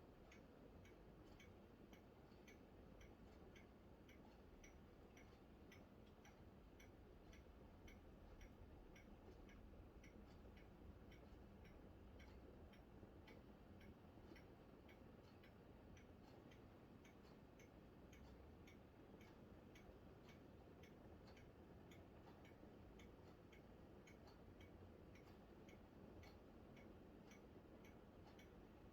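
Near silence with a faint, regular ticking, about three ticks a second, over a low hiss.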